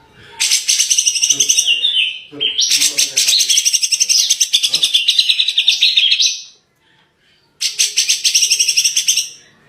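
Songbird singing three long bursts of fast, rattling high trills, with a short pause before the last.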